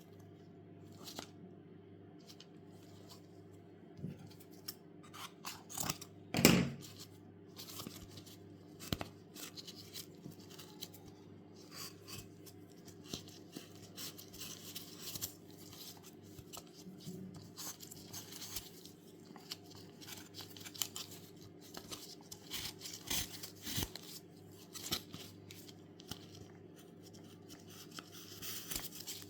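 A lacing craft toy being taken apart by hand: laces pulled out through the holes of the pieces in a run of short scrapes and light clicks, with one louder clatter about six and a half seconds in.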